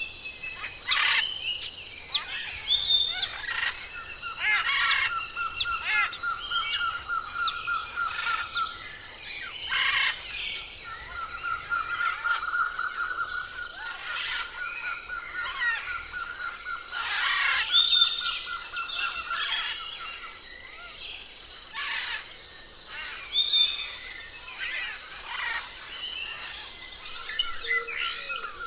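A chorus of birds chirping and squawking, with short sharp calls scattered throughout over a steady, rapidly pulsing trill. Near the end a higher, faster trill runs for a few seconds.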